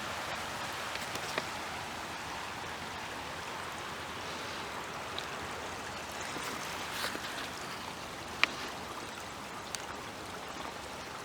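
Small woodland waterfall on a stream, water splashing and running steadily. A few sharp ticks stand out, the loudest about eight and a half seconds in.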